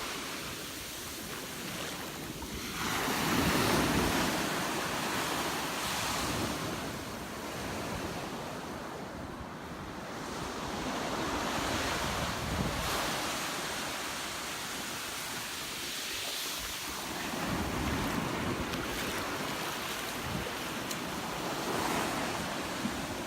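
Ocean surf breaking on a beach, the rush of the waves swelling and falling back several times, with wind buffeting the microphone.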